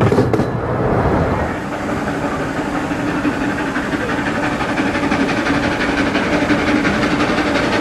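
15-inch gauge miniature train running along its track: a steady rumble of wheels on rails, with a steady low tone joining about two and a half seconds in.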